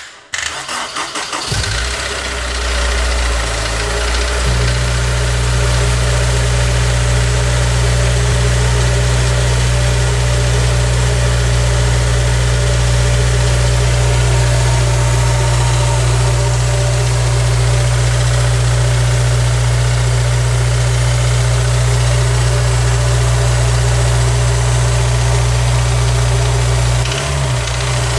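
Honda S2000's four-cylinder engine cranking briefly and starting, then idling steadily, and the note wavers near the end. The engine is rattling, which the owner fears may be engine damage, a timing chain or a connecting rod fault.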